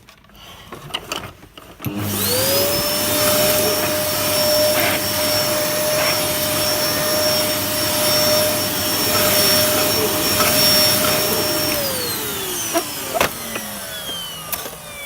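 Hoover Dustmanager vacuum cleaner switched on about two seconds in, its motor whining up to a steady pitch and running for about ten seconds, then switched off and winding down with a falling whine near the end. The machine's belt is knackered and its suction awful, in the owner's words.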